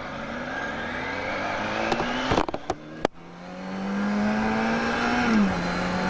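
Inline-four sportbike engine accelerating: the revs climb for about two seconds, break off with a few sharp clicks at a gear change, then the engine pulls on at a steady note that drops a little near the end.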